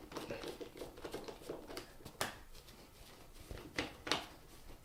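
Faint scraping and a few sharp metallic clicks as the screws holding a ceiling fan's canopy are loosened by hand.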